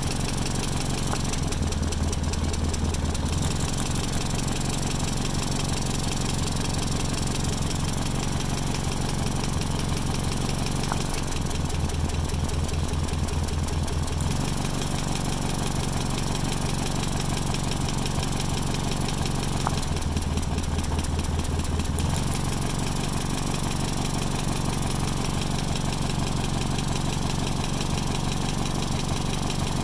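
M38A1 jeep's four-cylinder Willys Hurricane F-head engine idling steadily. Three times, for two or three seconds each, a spark plug wire is pulled and the idle turns rough and uneven with a deeper note, then smooths out again: the engine running with one cylinder dead, a cylinder-by-cylinder balance check.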